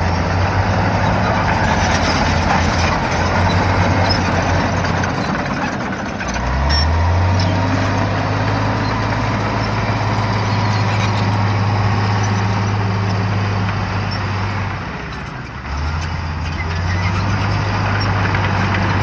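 Shantui bulldozer's diesel engine running steadily under load. Its pitch drops and climbs back up about six seconds in, and it eases off briefly again a few seconds before the end before picking back up.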